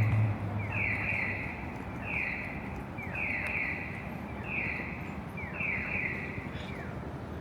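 An electronic signal repeating about once a second, each time a short falling chirp followed by a half-second buzzy tone. Near the start a low hum, the loudest sound, fades out.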